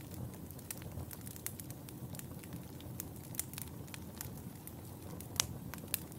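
Wood fire in a fireplace crackling, with frequent sharp pops over a low steady rumble of flame. Two louder pops come near the end.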